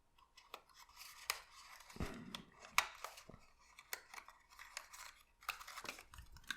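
Papercraft paper parts being handled, folded and pressed together: scattered small clicks and short rustles of paper.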